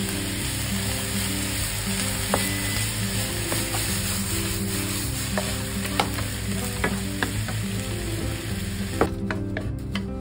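Maitake mushrooms, eggplant and green pepper sizzling in a frying pan while a wooden spatula stirs them, with scattered knocks and scrapes of the spatula on the pan. Near the end the sizzle stops as the pan is tipped and the vegetables are scraped out onto a plate.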